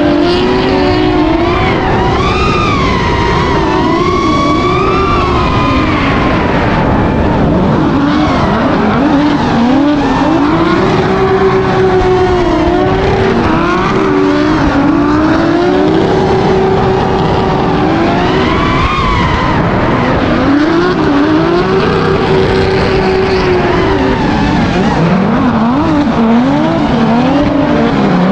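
Drift cars' engines revving hard and holding at high revs, the pitch rising and falling again and again and often sitting flat at the top, over a constant hiss of sliding, squealing tyres.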